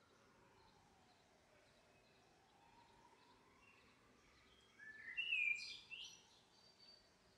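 Faint outdoor background noise, with a short run of bird chirps stepping up in pitch about five seconds in.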